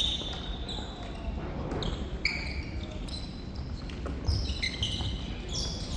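Sports shoes squeaking on an indoor court floor in many short, high squeals, with a dull thud about four seconds in.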